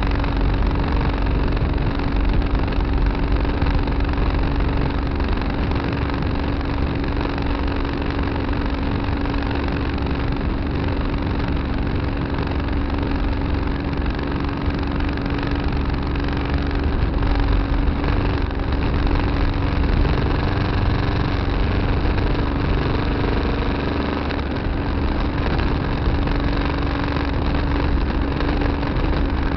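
Farm tractor's engine running steadily, heard from the cab, with a constant drone and low rumble.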